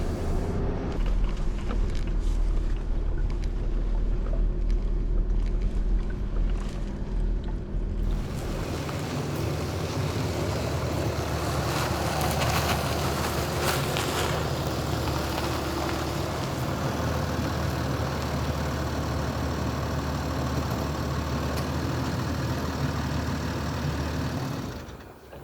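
A steady motor drone with a low hum and a hiss over it; the sound changes about eight seconds in, with the deepest hum dropping away and the hiss growing brighter, then fades out near the end.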